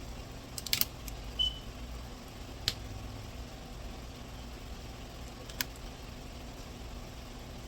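Hand tools working on the radiator hose of a Chrysler 300: a cluster of sharp metallic clicks just under a second in, a brief squeak, then single clicks a few seconds apart, over a steady low hum.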